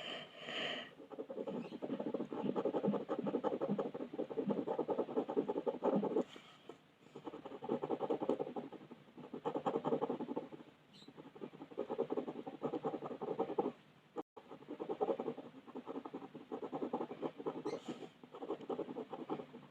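Rapid back-and-forth colouring strokes scratching on paper, coming in runs of a few seconds with short pauses between.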